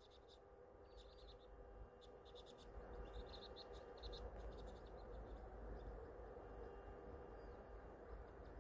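Faint high twittering of small birds, short calls in quick runs during the first four seconds or so, over a low outdoor rumble that grows slightly about three seconds in.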